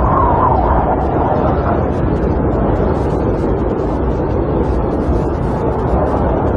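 Snowstorm wind rushing steadily against a camper, with a faint wavering howl in the first second or so.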